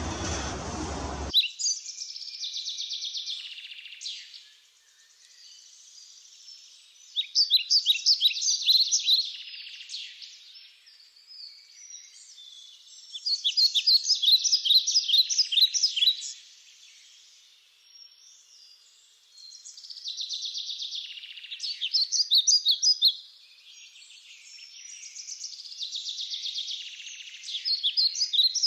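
Fairywren song: high, rapid trilling phrases of quick notes, each lasting two to three seconds, repeated about five times with pauses of a few seconds between. A short broad burst of noise opens the stretch.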